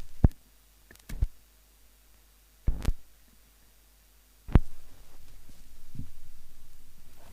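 Recorded dump-truck sound effects: several loud, separate thumps, the tailgate and doors shutting, then a low throbbing rumble of the truck's engine starting up about four and a half seconds in.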